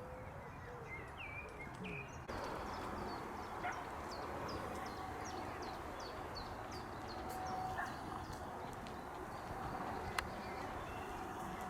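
Wild songbird singing: a quick run of short, high, downward-sliding notes, roughly three a second, over a steady outdoor hiss. A few other scattered bird calls are heard, with a sudden change in the background about two seconds in.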